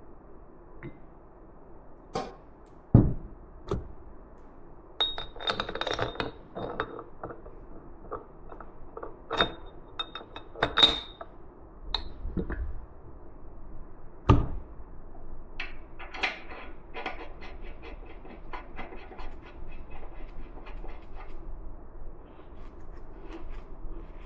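Metal parts and hand tools being handled on a workbench: scattered knocks and clicks, a few ringing metallic clinks, and later a quick run of light ticks.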